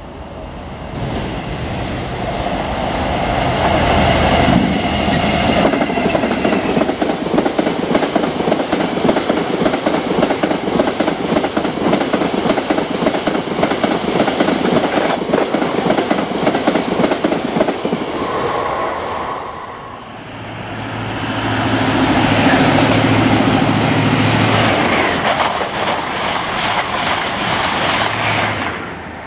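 A diesel-hauled freight train of hopper wagons passes close by: the locomotive's engine drone first, then a long run of wagon wheels clattering over the rail joints. About two-thirds of the way through, a High Speed Train with its class 43 diesel power car passes with a low engine drone and rushing coach wheels.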